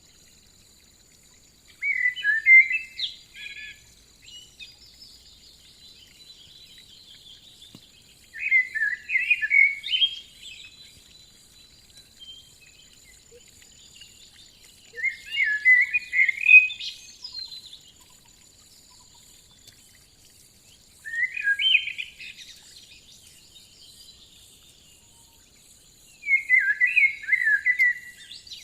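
A songbird singing loud, warbled phrases, five of them, each lasting a second or two and spaced about six seconds apart, over a faint, steady high-pitched drone.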